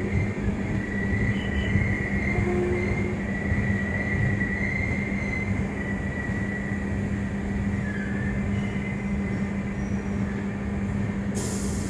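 Indian Railways passenger train rolling slowly through a station: a steady rumble of the wheels on the rails with a low hum, and a faint high squeal from the wheels. A hiss starts near the end.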